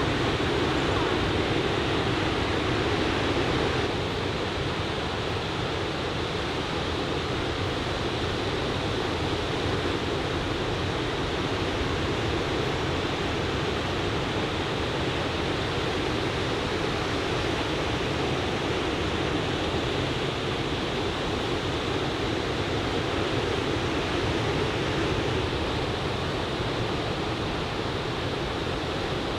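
Steady wash of ocean surf breaking on a sandy beach, a continuous noise without separate wave crashes, a little quieter after about four seconds.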